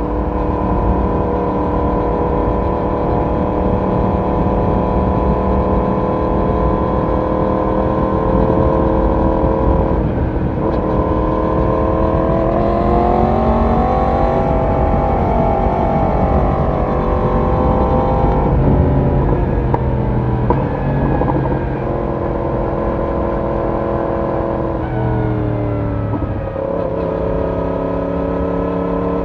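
Yamaha YZF-R1 inline-four motorcycle engine and exhaust under way, mostly at steady revs. The pitch dips and picks up again about ten seconds in, rises and falls over the middle stretch, and dips and steps back up near the end, as with throttle changes and gear shifts.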